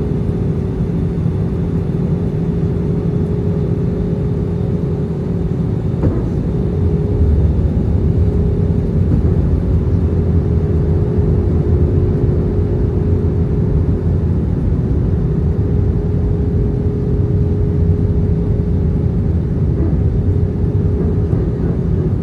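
Airbus A320 cabin noise in flight: a steady rumble of engines and airflow with a constant hum, heard from inside the cabin. A faint tick about six seconds in, and the noise grows slightly louder from about seven seconds in.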